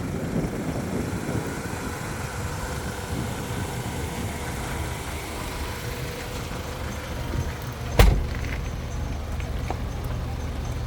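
A vehicle engine runs steadily with a low rumble. A single sharp, loud thump comes about eight seconds in.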